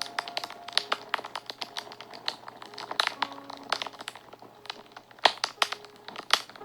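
Fire crackling and popping in irregular sharp snaps, a few of them louder pops, over a few faint held notes of soft background music.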